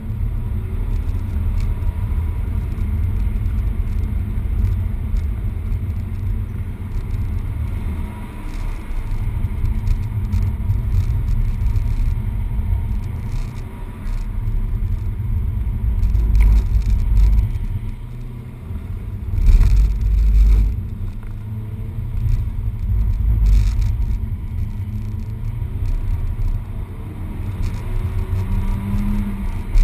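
Peugeot 208 GTi's 1.6-litre turbocharged four-cylinder running at speed on track, heard from inside the cabin over a heavy low rumble of road and tyre noise. The rumble swells louder a few times around the middle, and the engine note rises near the end.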